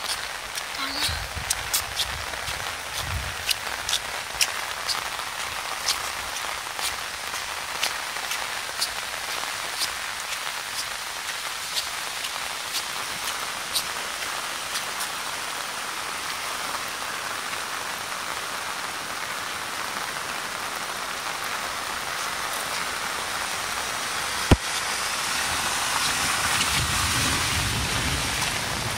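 Heavy rain pouring steadily, with close drops ticking sharply over the first half. A single sharp crack comes about 24 seconds in, and the rain swells louder near the end.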